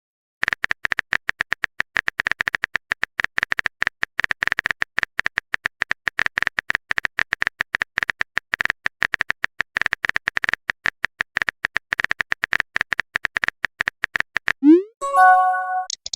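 Rapid, irregular clicking of a phone-keyboard typing sound effect for about fourteen seconds, then a short rising swoop and a brief chime of a few stepped tones: a chat message being sent.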